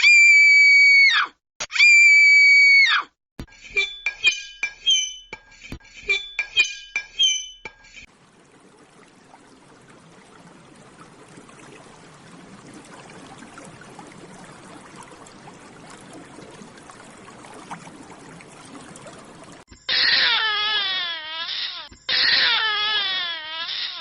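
A series of separate sound effects: two short, loud, high piercing tones, then a run of glassy clinks with ringing notes, then a long rushing like pouring water that slowly grows louder, and near the end two wavering, wailing cries.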